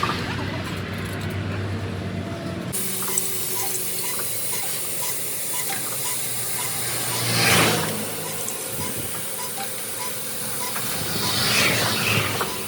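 Vehicles passing on a highway: two rise and fall, one about halfway through and one near the end, over a steady hiss and a low engine hum. A faint regular ticking runs underneath.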